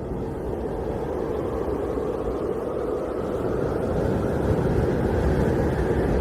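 Blizzard wind blowing steadily in a low rush, gradually growing louder.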